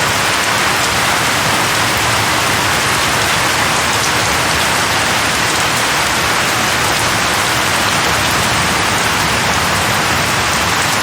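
Steady heavy monsoon rain falling, an even dense hiss of rain on surfaces.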